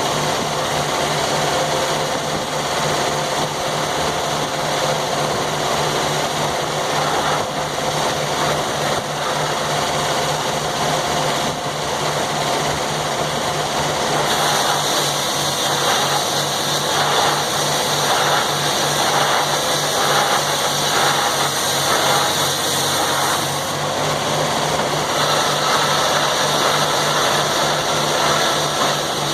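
Sawmill running steadily under engine power, with a higher, harsher sound joining about halfway as the saw bites into a log, easing briefly near the end and starting again.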